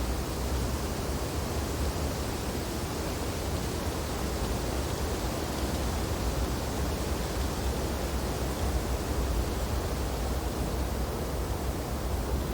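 Wind blowing steadily through snowy tree branches, an even rushing noise with a heavy low rumble and no gusts or breaks.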